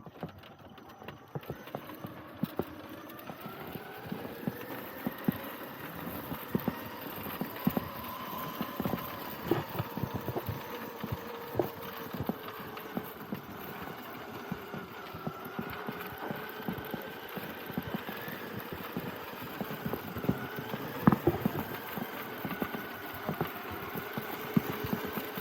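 Traxxas TRX-4 RC trail truck's sensored brushless motor whining as it drives, its pitch rising and falling with the throttle, over frequent sharp clacks and knocks of the truck over rough ground. One knock about three-quarters of the way through is the loudest.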